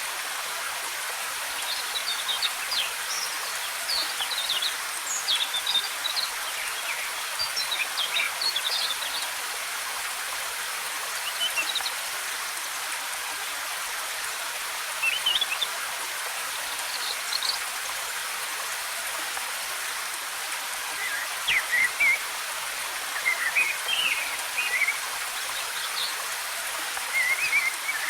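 Steady rush of a waterfall, with forest birds chirping in short, scattered bursts of high notes.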